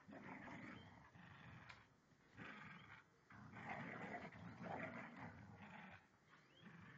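Two dogs fighting, snarling and growling in repeated rough bursts with short breaks between them.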